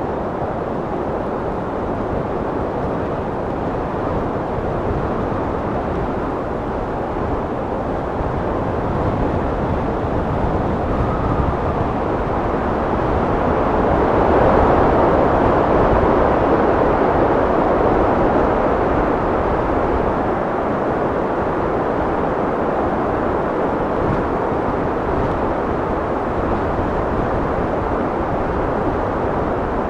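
Wind blowing steadily, a low rushing noise that swells to a stronger gust about halfway through and then eases back.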